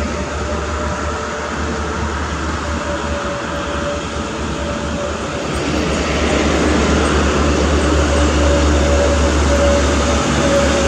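Loaded Mitsubishi Fuso truck running at speed: a steady low engine drone with road noise and a steady whine, getting louder about halfway through.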